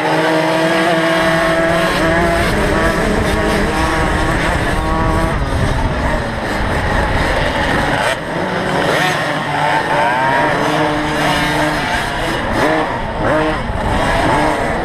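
Several small 50cc two-stroke motocross bikes revving and accelerating together, their engine notes overlapping and rising and falling as they shift and run on and off the throttle.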